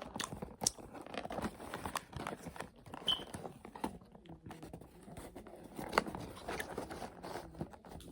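Close-up chewing and crunching of fried onion rings: irregular crisp crackles and bites with mouth sounds.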